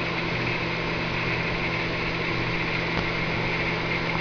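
Microwave oven running with a steady electrical hum and a fan whir, heating marshmallows inside.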